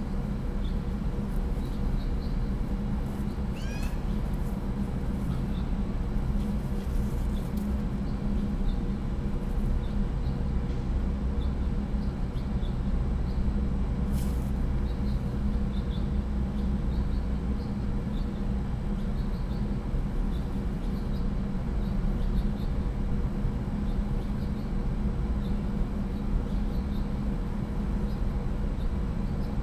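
Steady low background hum on a rooftop webcam microphone, with faint, short, high bird chirps scattered throughout, a brief gliding call about four seconds in, and a single click near the middle.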